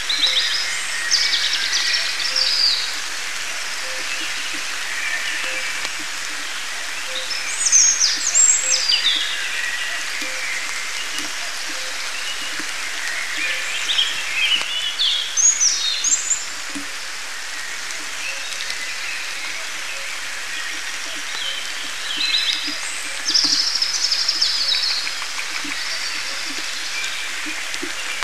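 Steady rain falling on the forest, with a songbird singing short, high, warbling phrases four times, several seconds apart. Small taps of drops are heard close by.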